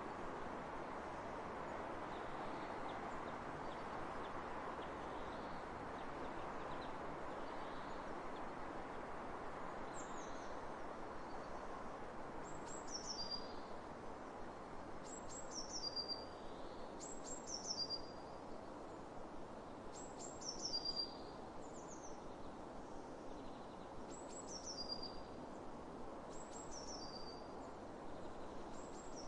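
Steady wind rushing across open fields. From about a third of the way in, a songbird repeats a short, high call roughly every two seconds, each a quick run of notes falling in pitch.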